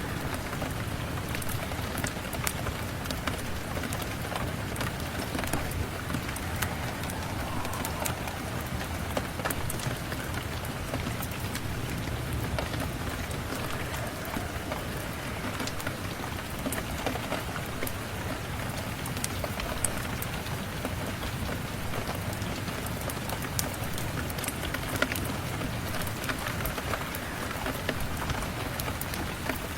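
Steady rain falling, an even hiss with many scattered sharp ticks throughout.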